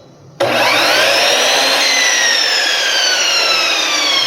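Sliding miter saw motor starting when the cut switch wires are touched together. It starts abruptly, whines up to speed for about a second, then slowly coasts down with a falling whine. The motor runs with the trigger switch bypassed, so the fault lies in the switch.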